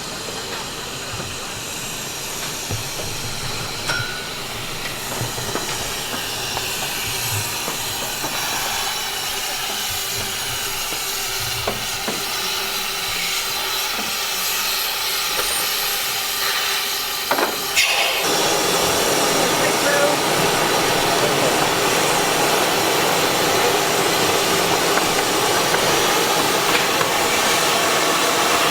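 Steam hiss from a 15-inch-gauge steam locomotive of the Romney, Hythe and Dymchurch Railway. It grows steadily louder, then becomes much louder after a sharp knock about two-thirds of the way through.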